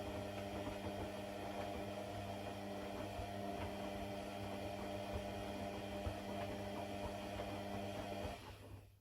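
A small mains-powered electric motor humming steadily with an even, buzzy tone, then cutting off suddenly near the end.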